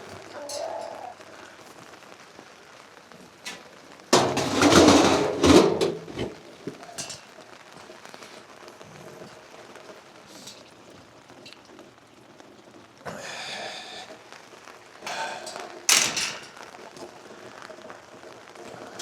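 Rain pattering, with several loud rustling, clattering bursts as chicken scratch grain is scooped and scattered: one about four to six seconds in, one about thirteen seconds in, and another about fifteen to sixteen seconds in.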